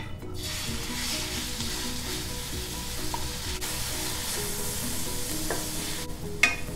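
Diced beef cubes dropping into hot oil in a stainless steel wok and sizzling as they sear, stirred with a wooden spatula. The sizzle stops shortly before the end, followed by a single sharp knock.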